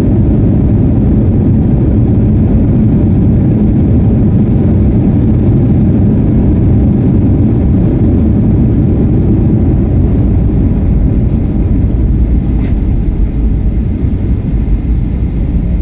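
Loud, steady rumble inside a jet airliner's cabin as it rolls along the runway just after landing, easing slightly in the last few seconds as the aircraft slows.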